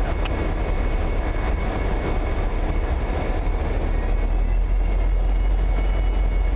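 Diesel freight train locomotives running, a steady low rumble with a faint high whine over it.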